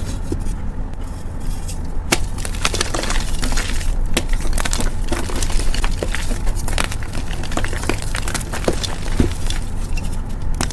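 Gym chalk being crushed: a dense, continuous run of soft crunches and crumbly crackles, over a low steady hum.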